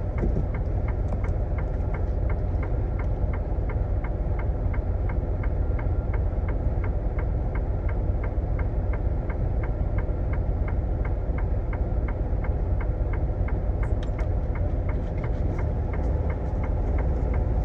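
Semi truck's diesel engine running with a steady low rumble, with an even ticking about two to three times a second over it.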